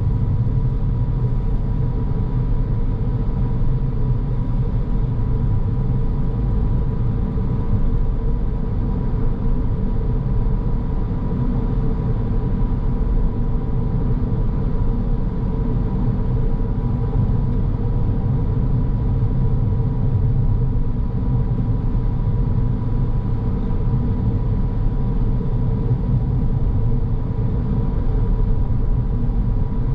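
Car driving at a steady pace: a continuous low road-and-engine rumble with a faint steady whine.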